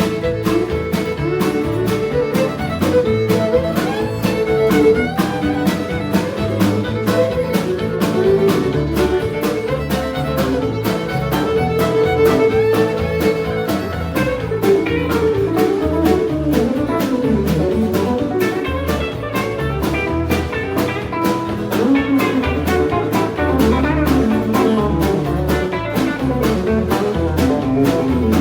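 Country band playing an instrumental break, a fiddle taking the lead over guitar and a steady beat.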